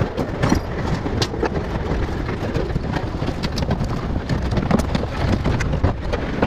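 Heavy truck engine rumbling steadily, with scattered short knocks and clanks.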